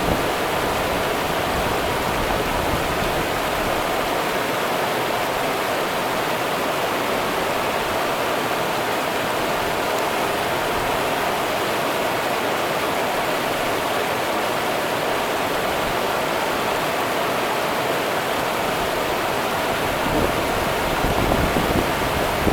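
Rio Grande river water running steadily, an even rushing noise, with a low rumble of wind on the microphone near the end.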